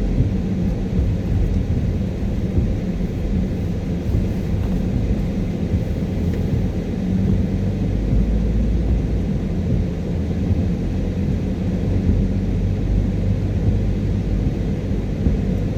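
Car driving, heard from inside the cabin: a steady low rumble of tyres on the road and the engine.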